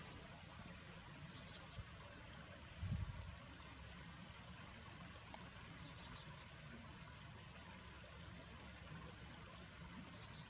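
Faint outdoor ambience with short, high bird chirps: about ten quick downward notes, scattered irregularly. There is a brief low rumble about three seconds in.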